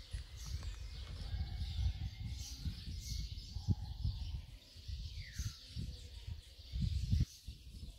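Birds chirping and calling, including one short falling call about five and a half seconds in, over a gusty low rumble on the microphone that is the loudest sound.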